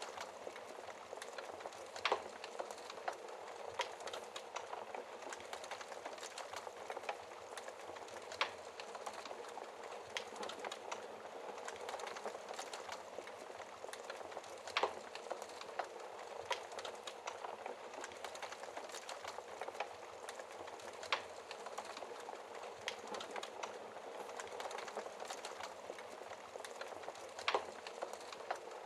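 Wood fire burning in a fireplace: a steady hiss of flames with dense small crackles, and sharper pops from the logs every few seconds.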